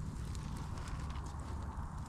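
Campfire burning: wood crackling with scattered small pops over a steady low rumble of the flames.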